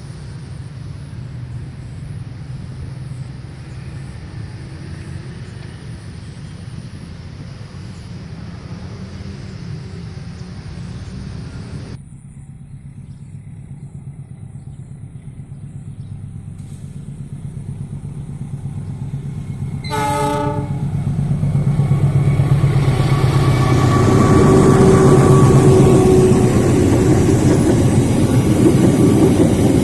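Train locomotive departing: a steady low rumble, then one short horn blast about two-thirds of the way in. After the blast the locomotive's rumble grows steadily louder as it pulls away.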